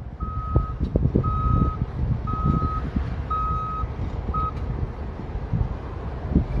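Heavy equipment's reversing alarm beeping about once a second, five beeps, the last cut short, over the low rumble of its engine and a few scattered knocks.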